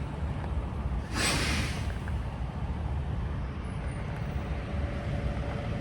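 Low, steady rumble of idling vehicle engines at a blocked railroad crossing, with a brief hiss of released air about a second in.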